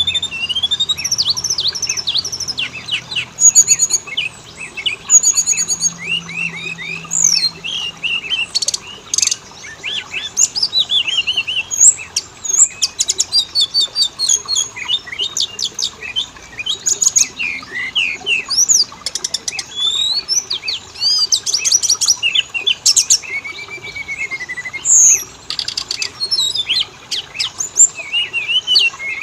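Oriental magpie-robin song: a nearly continuous stream of varied clear whistles, warbles and rapid trills, with a longer lower whistle about 24 seconds in.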